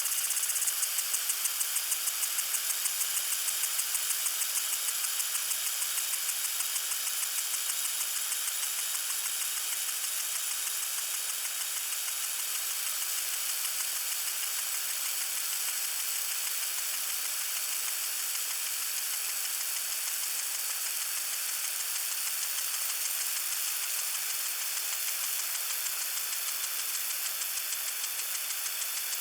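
Water sprinkler spraying: a steady hiss with a fast, even pulsing, clearest in the first few seconds.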